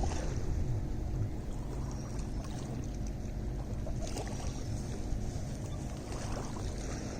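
Lake water lapping and sloshing at the shore, with a few small splashes and a steady low rumble underneath.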